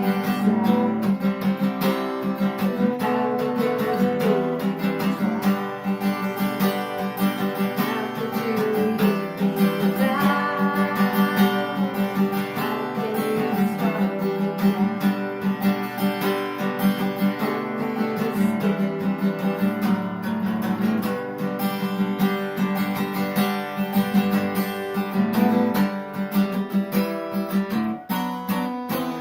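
Acoustic guitar being strummed and picked, playing continuous music.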